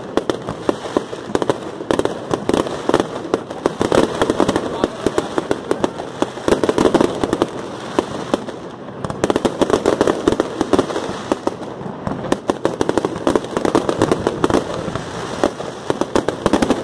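Fireworks display: a dense, continuous barrage of rapid bangs and crackling shell bursts.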